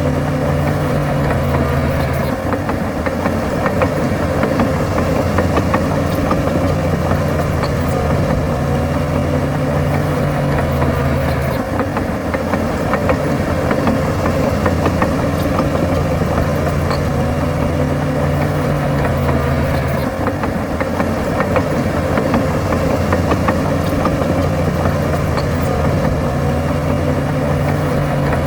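Heavy diesel engine of earthmoving machinery running steadily, its low note stepping up and down every several seconds as the load changes.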